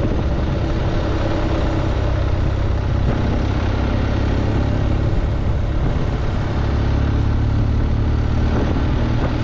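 BMW R1200GSA's flat-twin boxer engine pulling steadily up a mountain climb, with a constant rush of wind noise over it.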